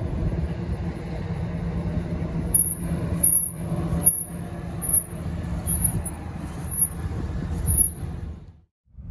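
A 1941 Ford Super Deluxe coupe's engine running, with short swells in level roughly once a second, like light throttle blips. The sound cuts off abruptly near the end.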